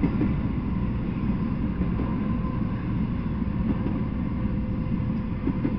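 Freight train of truck trailers on flatcars rolling past, a steady low rumble of steel wheels on the rails.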